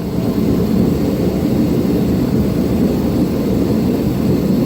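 Steady roar of blacksmith-shop equipment running in a forge shop, even throughout, with no distinct separate hammer blows.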